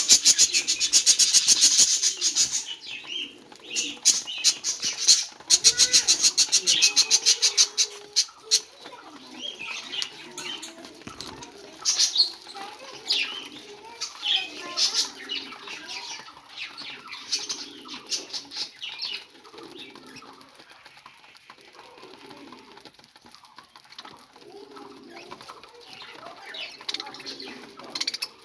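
Budgerigar chirping and chattering, with short squeaky calls throughout. Bursts of fast, evenly spaced pulses come in the first few seconds and again around six to eight seconds in.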